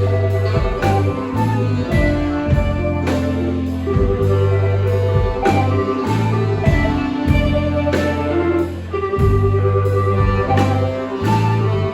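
Live band playing an instrumental passage: a held bass line, sustained pitched notes and regular drum hits.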